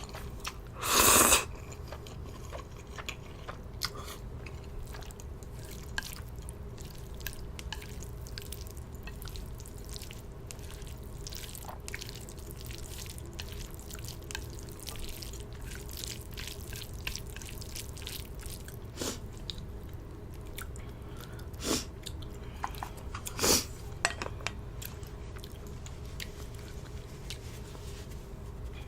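Close-miked eating of Samyang instant ramen: chewing with many small wet mouth clicks, and a few short loud noodle slurps, the loudest about a second in and near 23 seconds.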